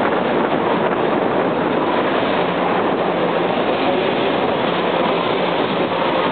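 N700 series Shinkansen prototype train pulling out of the station and gathering speed, its cars rolling past with a steady running noise and a faint steady whine from the drive.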